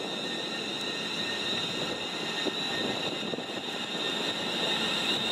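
Train passing on the main line: a steady rush of wheels on rail with a high-pitched tone running through it, growing slightly louder near the end.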